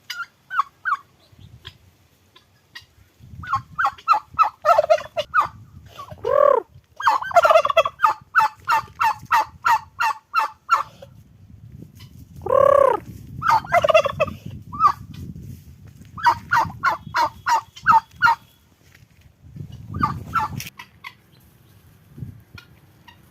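Domestic turkeys gobbling: repeated bouts of rapid, rattling gobbles, with a couple of longer rising-and-falling calls about six and twelve seconds in.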